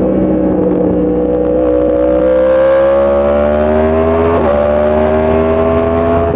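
Motorcycle engine pulling under acceleration, its pitch climbing steadily, with a quick upshift about four seconds in, after which it climbs again.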